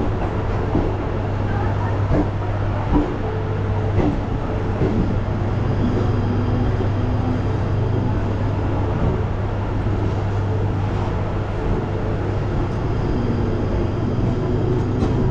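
Passenger train pulling slowly out of a station, heard from an open doorway: a steady rumble and low hum with occasional short clacks from the wheels.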